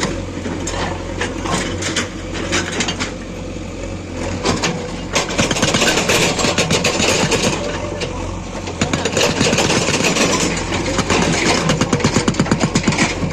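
Diesel engines of heavy machinery (a backhoe loader and tractor) running steadily, with irregular knocks and clatter throughout and a fast run of rapid knocks near the end.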